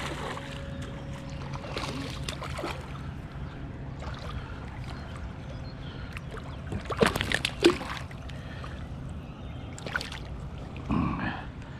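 Kayak on moving water: water noise around the hull over a faint steady low hum, with a few sharp knocks or splashes, the loudest cluster about seven seconds in.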